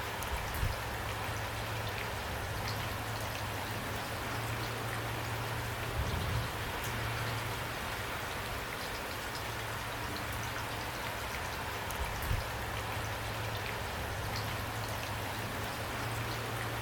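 Steady rain falling, with many distinct drops ticking over a continuous rush and a steady low drone underneath. A brief low thud comes about every six seconds, three times.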